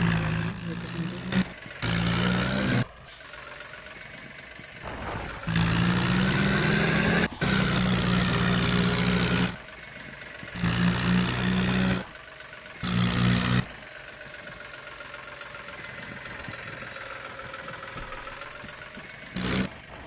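A motor vehicle's engine running with a steady low hum, heard on the move with a hiss over it. It jumps several times between loud stretches and quieter ones, then settles into a quieter steady run in the second half.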